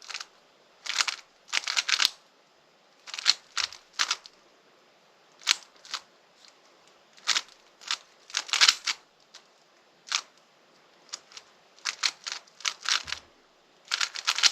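Rubik's cube turned quickly by hand: bursts of plastic clicking and clattering from rapid layer turns, in irregular groups with short pauses between them.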